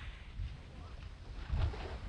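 Sea waves on a sandy beach: the wash of a broken wave dies away to a quieter hiss of water. Low wind rumble buffets the microphone, with a small swell about one and a half seconds in.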